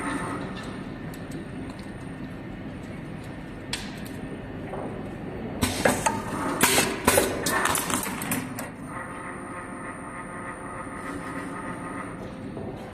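CNC wire bending machine running: a steady motor whine under a mechanical hum. A single click comes after a few seconds, then a burst of loud clattering knocks in the middle, then the whine alone again.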